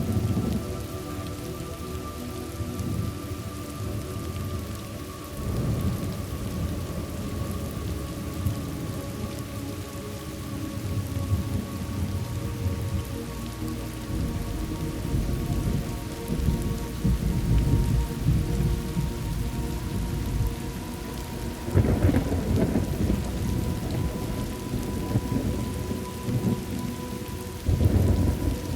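Thunderstorm: steady rain with low rolling thunder, and heavier rumbles breaking in about a fifth of the way in, around three-quarters through, and again just before the end.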